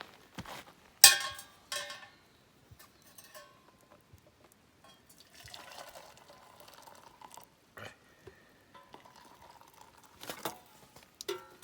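Water being poured into a metal container, with a loud ringing metal clank about a second in and lighter clinks of cookware being handled.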